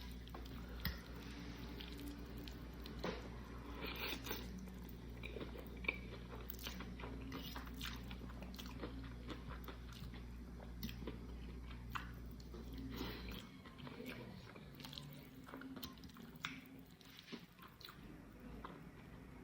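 Close-miked chewing and biting of a mouthful of pasta, with wet mouth sounds and some crunching, in many short clicks. A low steady hum in the background cuts off about two-thirds of the way through.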